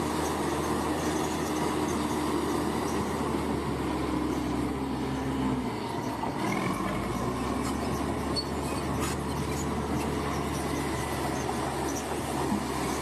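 Bulldozer's diesel engine running steadily with its crawler tracks working. The engine note changes about six seconds in.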